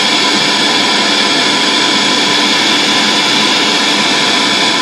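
Bluetooth speaker in FM radio mode playing loud, steady static hiss, an untuned FM receiver, with a few faint steady tones under it.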